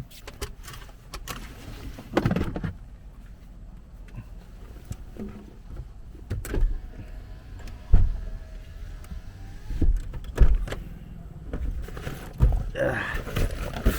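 Scattered knocks and thumps of handling in and around a just-parked car, with a faint wavering whine for a few seconds in the middle.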